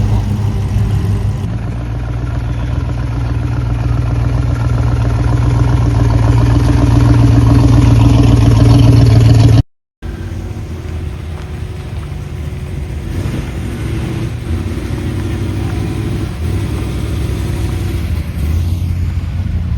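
Car engines running as cars drive past: a deep engine rumble that grows louder over about ten seconds and cuts off suddenly, then another car's engine running more quietly, swelling again near the end.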